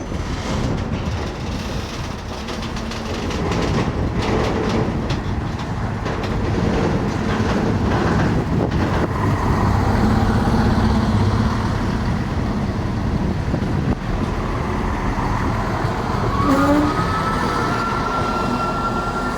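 Train rolling past on the tracks: a steady rumble with repeated clicks of the wheels over rail joints, and a high whine that rises in pitch near the end.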